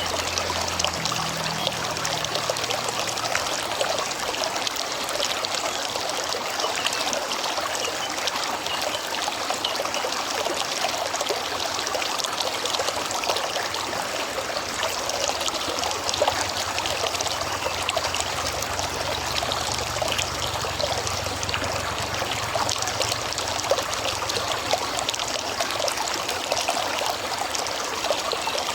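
River water flowing steadily: an even rushing trickle with no pauses.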